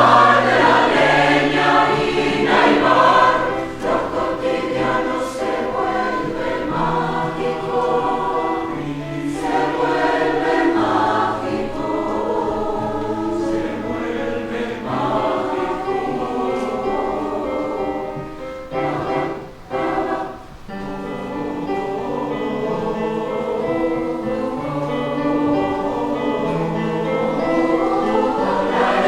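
A choir singing in harmony, the voices holding sustained chords that change every second or so, with two brief breaks about nineteen and twenty seconds in.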